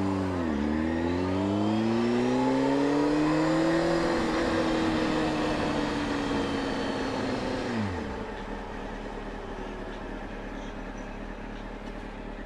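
Motorcycle engine pulling away: the revs climb for a few seconds, ease off slowly, then drop sharply about eight seconds in, leaving a quieter steady drone.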